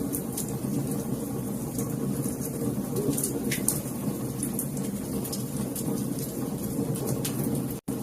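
Wood fire in a fireplace crackling, with irregular sharp pops and snaps over a steady low rumble of burning. The sound cuts out for an instant near the end.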